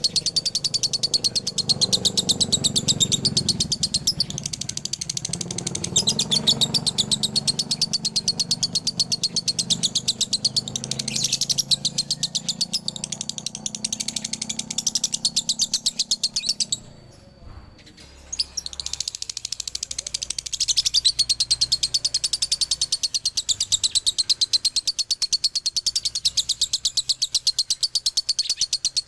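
Male lovebird singing its long, rapid chattering 'ngekek' song in the 'dobelan' style: a high-pitched stream of very fast repeated notes that breaks off briefly a little past halfway, then carries on.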